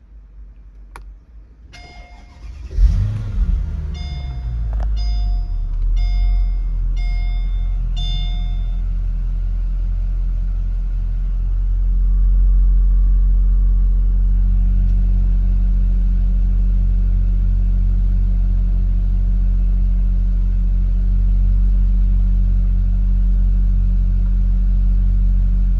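Car engine cold-started: a few clicks, then it catches about three seconds in and flares before settling to a steady idle. An electronic beep repeats about once a second for several seconds after the start. The idle gets slightly louder about halfway through.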